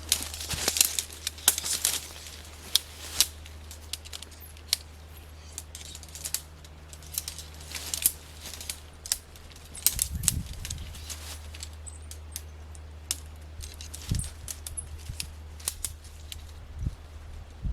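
Aluminium tent pole sections clicking and clinking as they are fitted together, in an irregular run of sharp metallic ticks, busiest at the start, with a couple of low thuds from handling.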